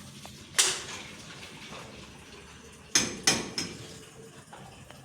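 Kitchenware clattering: a sharp knock of pots or dishes about half a second in, then two more close together around three seconds in, each ringing briefly.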